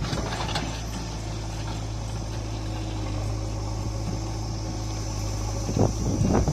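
JCB 3DX backhoe loader's diesel engine running steadily at a low, even pitch, with a few sharp knocks near the end.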